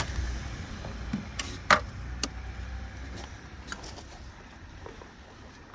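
Scattered sharp metallic clinks and taps of tools and parts being handled in an engine bay, the loudest about a second and a half in, over a low vehicle rumble that fades away within the first couple of seconds.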